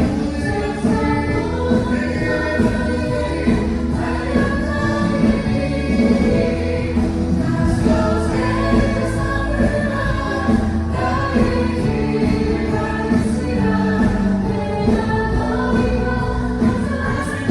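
Live gospel music: a group of voices singing together over instrumental backing with a steady bass, picked up as room ambience on an iPhone.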